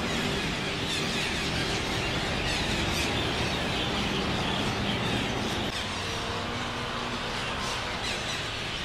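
A flock of red-breasted parakeets calling all at once: a dense, steady chorus of harsh, overlapping screeches.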